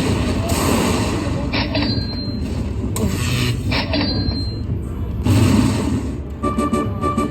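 Casino floor din: a steady low rumble of machines and crowd, cut by two short electronic slot-machine chimes. Near the end a slot machine's electronic tune starts up.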